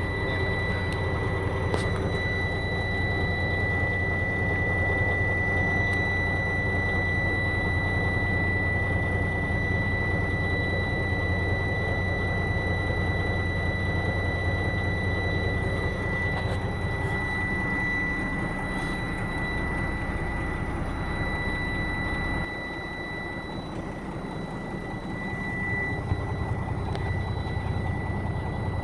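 Big rig truck's diesel engine idling just after starting, a steady low rumble with a constant high-pitched whine over it. About two-thirds of the way through, the rumble drops off and the sound gets quieter, then picks up again near the end.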